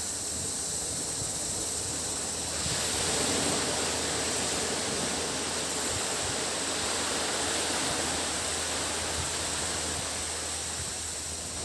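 Sea waves washing onto a beach, with a surge of surf rising about two and a half seconds in and easing off near the end, over a steady high-pitched drone of cicadas.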